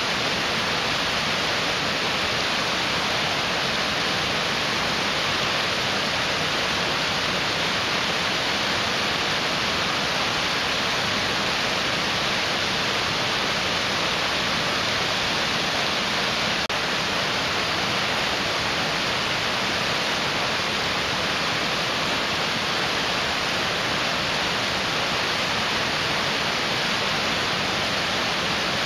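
A rushing mountain stream: water running fast over rocks, a steady, even rush.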